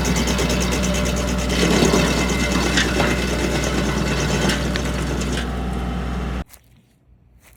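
Tractor engine running steadily under the SG24 stump grinder, a constant low hum with a fast, even rattle. It cuts off suddenly about six seconds in, leaving only faint outdoor background.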